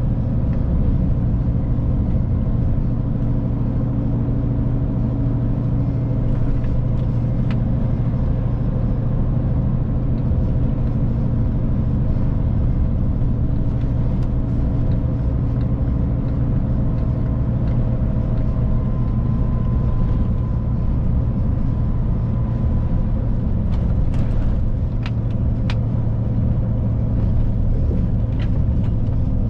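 Steady engine and road rumble heard inside the cab of a Scania Next Generation truck on the move, with a few faint ticks near the end.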